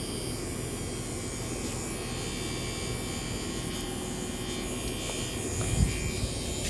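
Washing machine running its wash cycle: a steady electric hum and buzz, with two short low thumps near the end.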